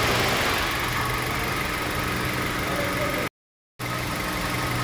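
Car engine idling steadily after repair of a cylinder 2 misfire: new valve, lifters, spark plug and ignition coil on that cylinder. The sound cuts out for about half a second after about three seconds, then resumes.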